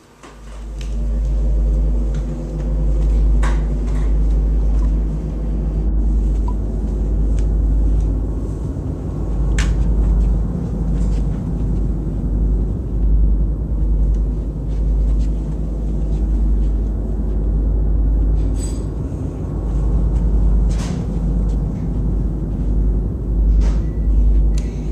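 A steady, heavy low rumble that swells and dips, with a few sharp clicks scattered through it.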